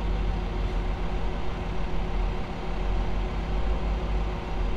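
Steady low engine drone with a constant hum, heard from inside a vehicle riding a river ferry as it comes in to its landing.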